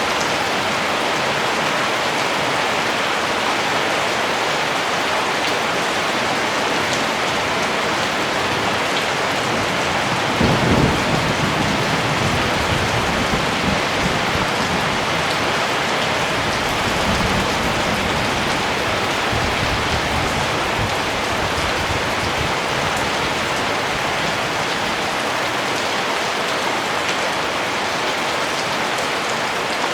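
Steady rain falling, an even hiss of drops on surfaces. About ten seconds in, a low rumble of thunder swells and rolls on for roughly ten seconds before fading back under the rain.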